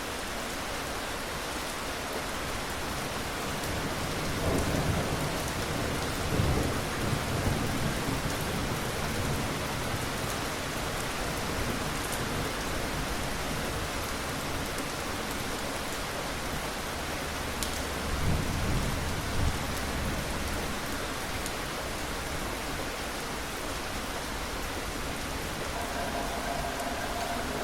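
Steady rain falling, with two low rolls of thunder: one about four seconds in lasting several seconds, and another around eighteen seconds.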